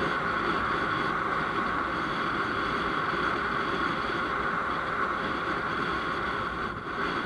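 Steady road and engine noise of a moving vehicle, heard from on board, with a strong even hiss and no change in pace; it dips briefly near the end.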